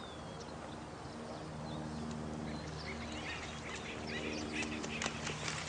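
Birds chirping and calling in short quick notes, growing busier about halfway through, over a steady rush of running water and a low, constant hum.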